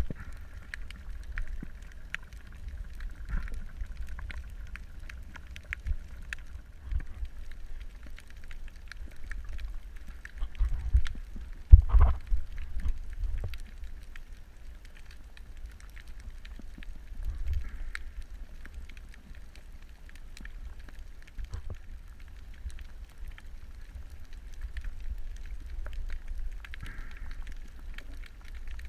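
Underwater ambience: a low rumble with scattered crackling clicks, and one loud knock about twelve seconds in.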